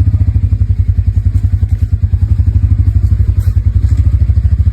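Motorcycle engine running at a steady idle, an even, rapid low chugging.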